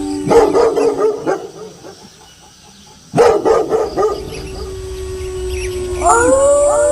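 Wolves howling with dogs barking. A burst of barking comes just after the start and another about three seconds in. After the second burst one howl holds steady, and several howls rise together near the end.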